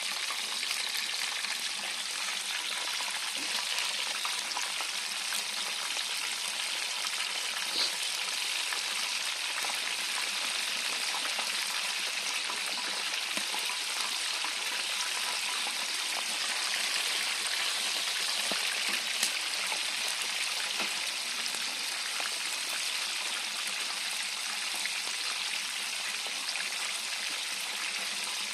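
Chicken deep-frying in a pot of hot oil: a steady, dense sizzle during its first fry.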